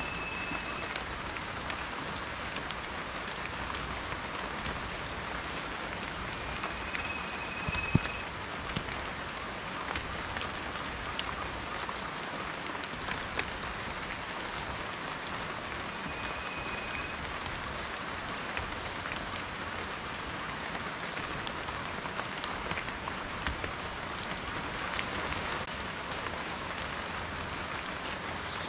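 Steady rain falling, an even patter with individual drops ticking, one sharp louder drop about eight seconds in. A short, steady high note sounds three times over the rain.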